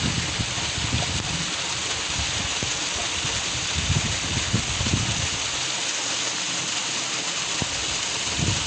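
Steady rush of running water, with irregular low rumbles of wind buffeting the microphone.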